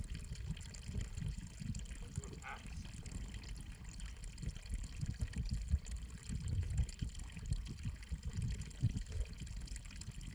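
Water running and trickling, an uneven flowing sound with a low rumble under it.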